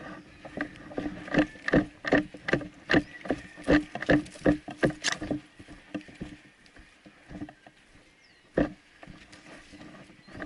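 A quick run of sharp cracks or crunches, about two to three a second for roughly five seconds, then a few scattered ones and one more strong crack near the end.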